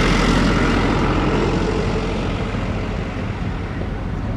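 Jet airliner engines running, a steady rush of engine noise over a low rumble that eases a little about halfway through.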